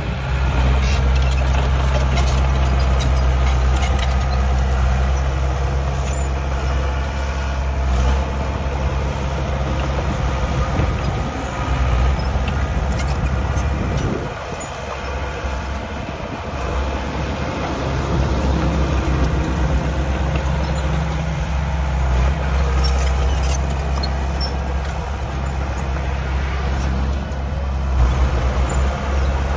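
Diesel earthmoving machinery running steadily, with scattered metallic clanks. The engine's low hum fades for a couple of seconds around the middle, then picks up again.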